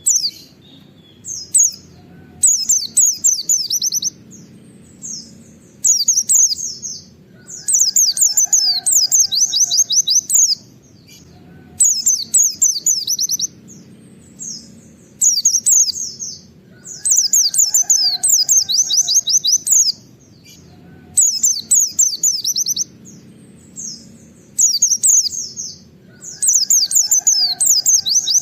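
A white-eye (pleci) sings its fast 'nembak wit wit' song: repeated bursts of quick, high, down-slurred notes, each burst one to three seconds long with short pauses between. A low, steady background noise runs underneath.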